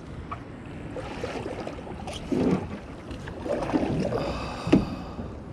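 Water sloshing and splashing around a kayak, with a few short knocks against the hull.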